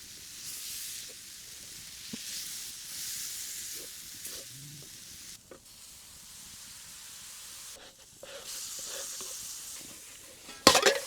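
Mutton frying in butter in a pot, sizzling in waves with small crackles. Near the end, one sudden loud clatter.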